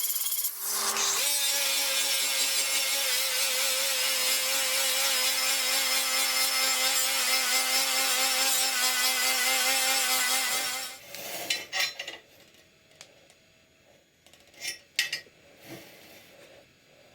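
A power tool cutting: it runs steadily with a slightly wavering pitch for about ten seconds, then stops. A few light taps and clicks follow.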